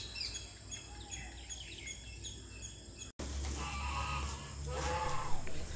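Small birds chirping, a string of short repeated calls over a light outdoor background. About three seconds in the sound cuts off suddenly to a steady low hum with a few faint indistinct sounds.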